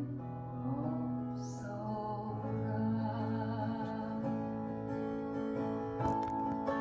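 Acoustic guitar accompanying a singing voice in a slow ballad, the voice holding a wavering note through the first couple of seconds while the guitar plays on.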